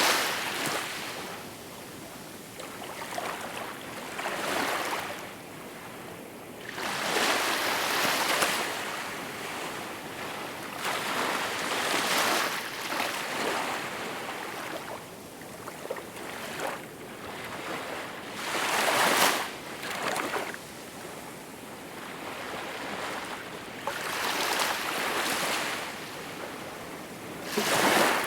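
Small waves washing onto a shore, each one swelling into a hiss of surf and fading, a new wash every three to four seconds.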